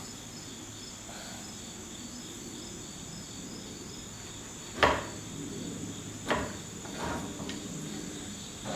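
Steady high-pitched chirping of crickets, repeating evenly, with three short knocks of metal parts, the first about five seconds in, as the freed front suspension cross member is handled.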